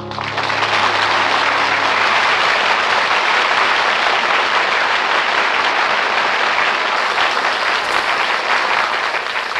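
Studio audience applauding, over the orchestra's final held chord, which fades out about two seconds in.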